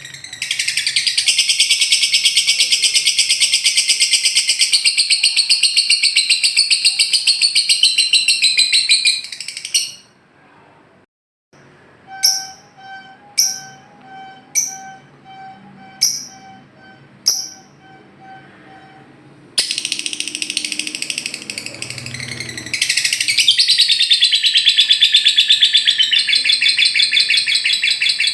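Lovebird ngekek: a long, rapid chattering trill held for about nine seconds, then stopping. After a short pause come six sharp chirps about a second apart. The rapid trill starts again about twenty seconds in and gets louder near the end.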